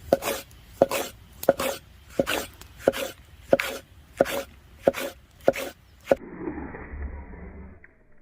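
Steady chopping: sharp knocks about three every two seconds, each followed by a quick second tap, stopping about six seconds in. Softer, duller noise follows.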